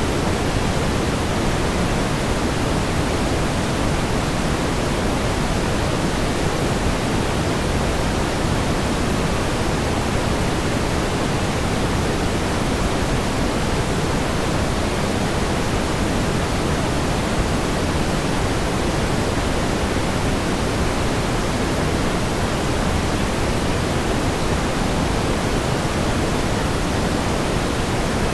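Steady pink noise: an even hiss, stronger in the low end, unchanging throughout.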